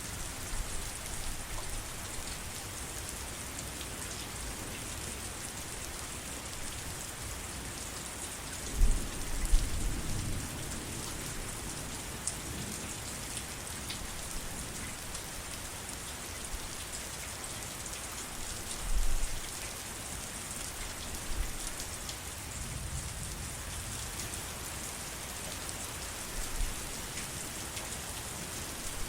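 Steady heavy rain falling, an even hiss of many drops. Several low rumbles rise through it, the loudest about nine seconds in and others near the end.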